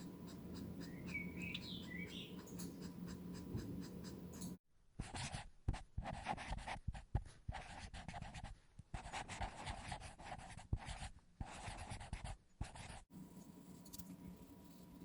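Markers stroking across paper in quick, scratchy strokes that stop and start, with sudden breaks where the sound cuts out. A brief wavering chirp about a second in.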